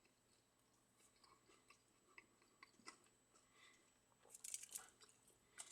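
Faint chewing of McDonald's fries, with soft scattered mouth clicks and a brief louder crackle about four and a half seconds in.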